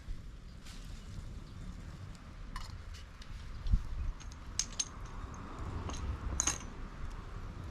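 Scattered light metallic clinks and knocks, with one dull knock near the middle and a few ringing clinks after it, over a low steady rumble.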